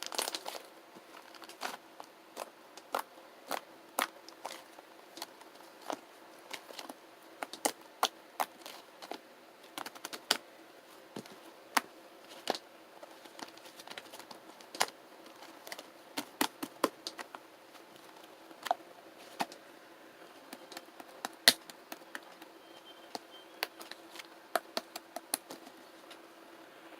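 Clear slime mixed with shaving foam being squished and pressed by hand, making irregular sharp clicks and pops, sometimes a few in quick succession.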